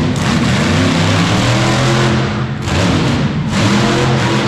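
Monster truck engine revving loudly, its pitch shifting up and down, with a short dip in level about two and a half seconds in.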